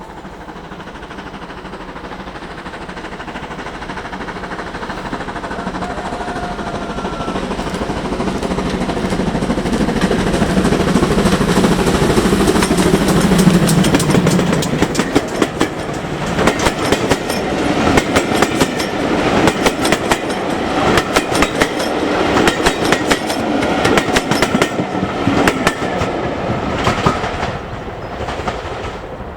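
Steam train approaching and passing, its rumble building to a peak about halfway through. Then the wheels of the passing cars clatter over the rail joints in a run of rhythmic clicks.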